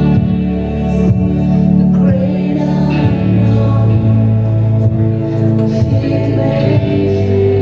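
Worship band playing a gospel song with the congregation singing along, over guitar and a steady bass line.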